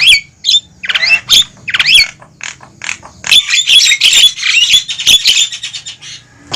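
Javan mynas (jalak kebo) giving harsh, noisy calls: a string of sharp squawks sliding up and down, then a dense burst of chattering from about halfway through. This is the excited chatter used as a lure call to draw wild mynas in.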